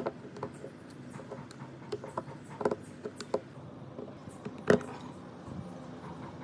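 Scattered clicks and light knocks of tools and small metal parts being handled on a workbench, with one sharper knock just before five seconds in, over a low steady hum.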